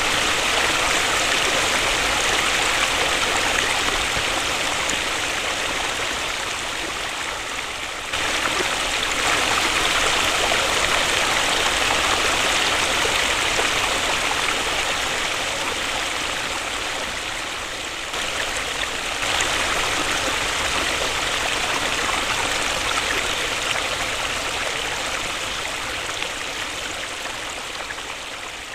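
Waterfall: a steady rush of falling water, strongest in the hissing upper range. It shifts abruptly in loudness and tone about 8 seconds and again about 19 seconds in.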